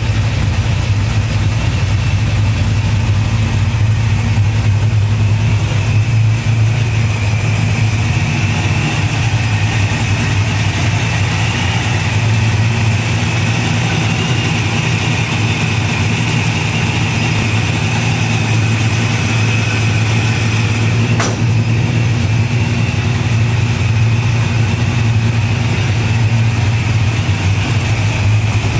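Supercharged V8 engine of a 1968 Camaro idling steadily.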